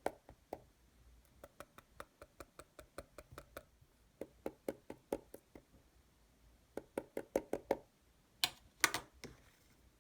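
A quick series of light taps or knocks, several a second in clusters, with a louder group of strokes near the end.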